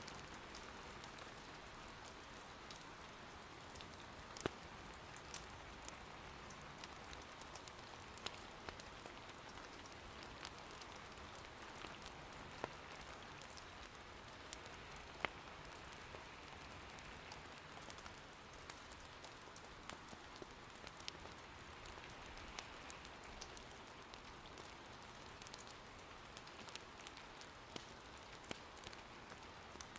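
Soft, steady rain patter with scattered sharp pops of firewood crackling in an irori hearth, several louder snaps among them.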